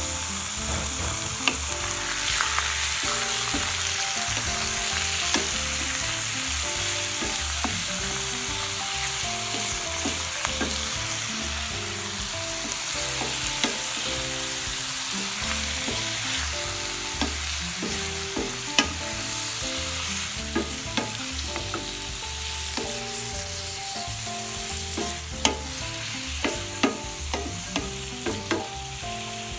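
Squid sizzling as it fries in hot oil with onion, tomato and pepper strips in a stainless steel pan, with a spatula stirring and scraping the pan. The scraping clicks come more often near the end.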